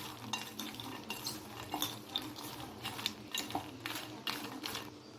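A spoon stirring in a bowl, with irregular clinks and scrapes, as ghee-roasted lotus seeds (makhana) are tossed together with chopped onion, tomato and spices.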